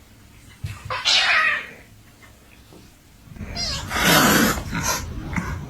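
Cat vocalising: a brief call about a second in, then longer, louder yowling calls from about three and a half seconds on.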